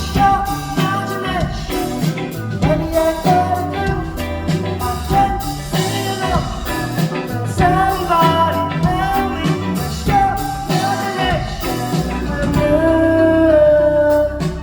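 Live band music: drums, bass and electric guitar playing under a sung melody line, held long on one note near the end.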